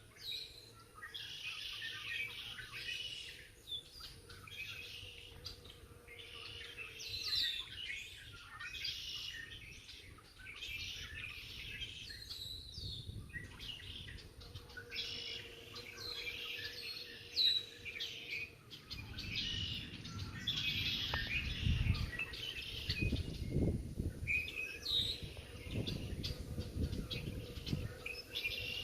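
Songbirds chirping and singing, many short calls overlapping, with a faint steady hum underneath. In the last third, bursts of low rumble join the birdsong.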